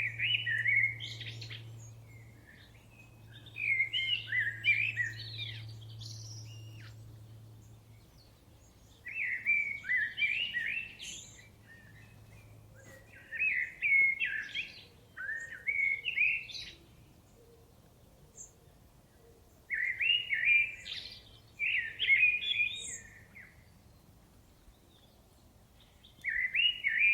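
A thrush singing: short phrases of quick, varied whistled notes, about one every four to five seconds, with pauses between. A faint low hum sits under the first few phrases.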